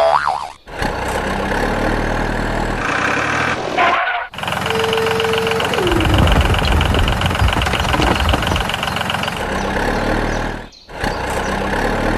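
Vehicle engine sounds running in several segments broken by abrupt cuts. About five seconds in a short steady tone drops in pitch, followed by a low rumble with rapid ticking.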